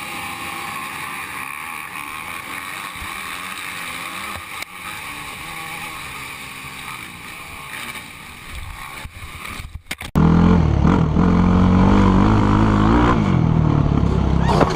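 Vehicle engines running: a steady, higher-pitched engine drone for about ten seconds, then an abrupt cut to a much louder, deeper engine whose pitch rises and falls near the end.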